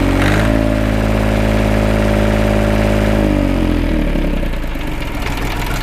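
Mini tractor's KM385-type diesel engine running, revved up briefly and then easing back down to idle. The owner hears a faint metallic knock from the first cylinder and a loss of pulling power, and suspects the block, a cylinder liner or the bearings.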